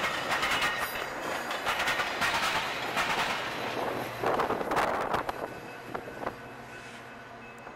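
A train rolling past on the rails, with a run of sharp clicks over a steady rumble of wheels and cars; it fades away over the last few seconds.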